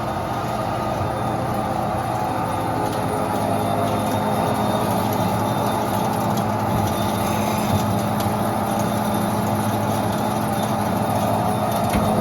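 Behringer HBP530A horizontal band saw running, a loud steady machine noise with a low hum, holding even throughout.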